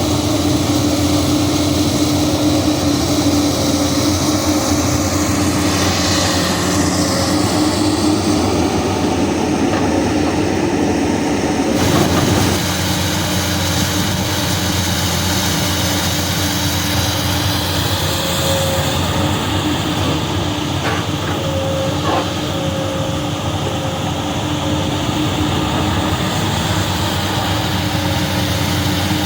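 Komatsu PC200 hydraulic excavator's diesel engine running steadily as it works, with a single clank about twelve seconds in.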